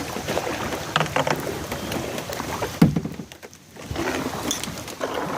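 Kayak on the water: paddle splashing and water sloshing against the boat, with light knocks and a louder dull thump about three seconds in, followed by a brief lull.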